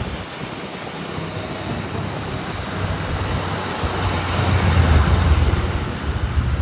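Vehicle noise on a road: a steady engine and tyre rumble that grows louder about four seconds in, as if a vehicle draws close, then eases slightly near the end.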